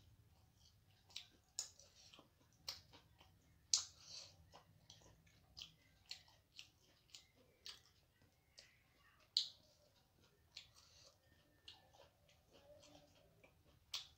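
Close-up chewing of crisp food by a person, with irregular sharp crunches and mouth clicks, one or two a second. The two loudest crunches come about four and nine seconds in.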